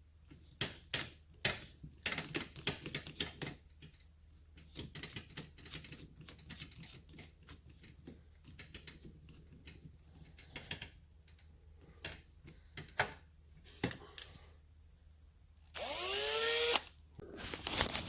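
Power drill with a small bit: short clicks and brief bursts as the tool and work are handled, then one louder run of about a second near the end with the motor's pitch rising as it spins up.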